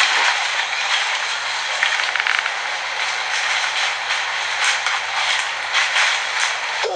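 Close-up crunching and chewing of mango, in short irregular crackles, over a steady rushing hiss.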